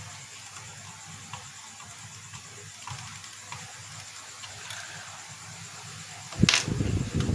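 Faint small clicks of plastic projector parts being handled over a quiet hiss, then a sharp click about six seconds in followed by louder clattering handling noise.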